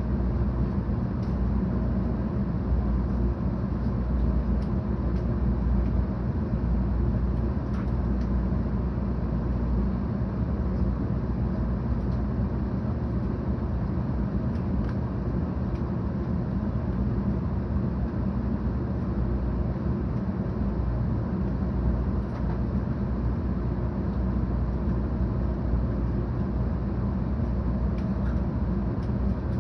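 Steady running noise of a 700 Series Shinkansen heard inside the passenger car: an even low rumble from wheels and track, with faint light ticks now and then.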